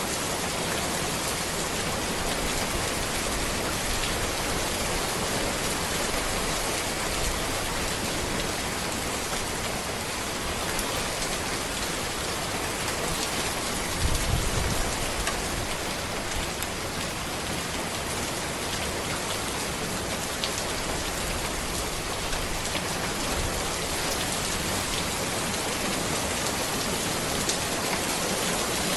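Steady rain falling on a road and trees, an even dense hiss with scattered drop ticks. There is a brief low rumble about halfway through.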